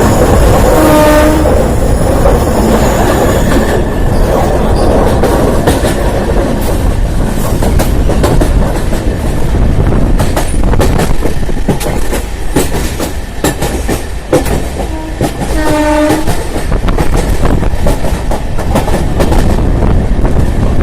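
Train running through the Kasara Ghat section: a steady rumble with rapid wheel clicks over the rail joints. Its horn sounds briefly twice, about a second in and again near the end.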